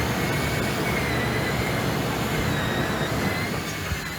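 Cordless drill spinning a polishing pad against a cloudy plastic headlight lens, a steady whirring and rubbing with a motor whine that wavers in pitch as the pressure changes. It eases slightly near the end.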